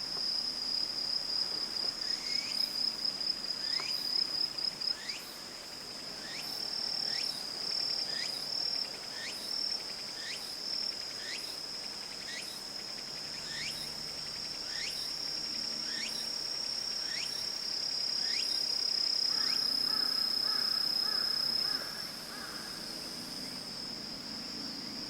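Forest ambience: a steady, high-pitched insect trill, with a run of short falling chirps about one a second through most of it. A different pulsing call joins briefly near the end.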